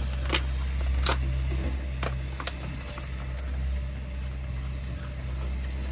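A steady low mechanical hum, with several sharp clicks or taps in the first two and a half seconds, as of hand tools knocking on brick.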